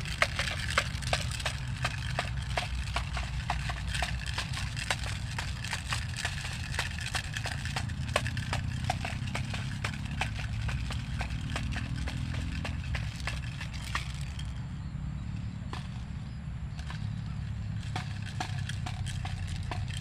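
Rapid, irregular wooden clacking, the kind made by a bamboo bird-scaring clapper. It thins out about two-thirds of the way through, over a steady low rumble.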